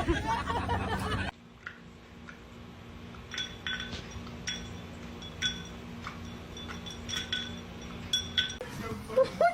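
Light ringing clinks, about a dozen at irregular intervals, like glass or metal being tapped, over a faint steady hum. They follow a louder passage that cuts off about a second in.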